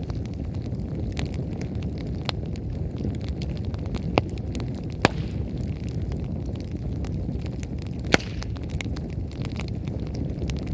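Wood bonfire burning hard, its firewood crackling and popping over a steady low rumble; three louder pops stand out about four, five and eight seconds in.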